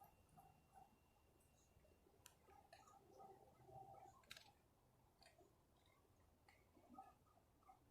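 Near silence with a few faint, scattered clicks and soft blips.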